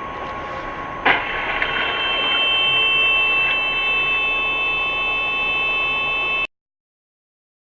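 Steady road and engine noise with a faint steady high-pitched tone, broken by a sudden loud bang about a second in; the sound cuts off abruptly near the end.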